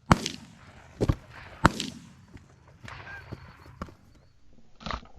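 Shotgun shots at incoming geese: several sharp bangs at irregular spacing, the loudest three within the first two seconds, and fainter ones later.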